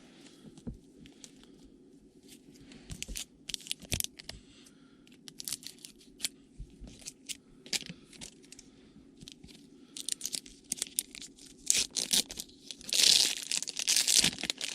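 Foil wrapper of a trading card pack being crinkled and torn open, a run of sharp crackles that builds to the loudest tearing about 13 to 14 seconds in.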